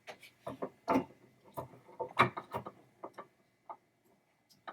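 A series of light clicks and knocks, about ten in all and loudest a little past the middle, from a pinball coil and its new coil sleeve being handled and fitted back together.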